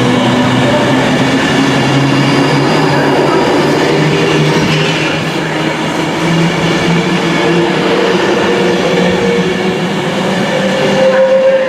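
Class 390 Pendolino electric train pulling away, its traction motors whining in several tones that slowly rise in pitch as it gathers speed.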